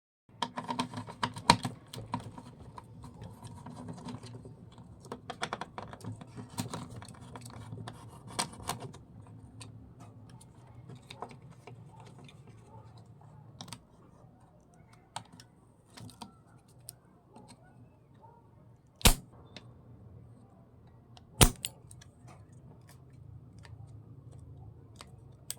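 Small irregular clicks and taps of tools and electronic parts being handled at a workbench during a turntable circuit-board repair, over a low hum in the first several seconds. Past the middle come two sharp, much louder clicks about two and a half seconds apart.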